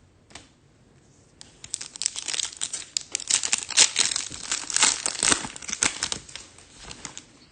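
Foil wrapper of a Topps Chrome Formula 1 trading-card pack crinkling as it is torn open and handled. It starts about a second and a half in and fades near the end.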